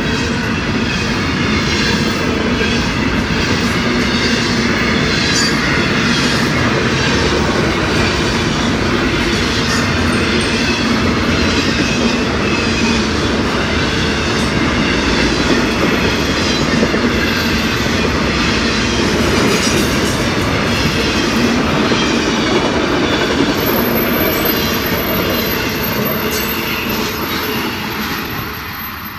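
Florida East Coast Railway freight train rolling past: double-stack container cars and then autorack cars. Their wheels make a steady rumble and clatter over the rail joints, and the sound fades near the end as the tail car goes by.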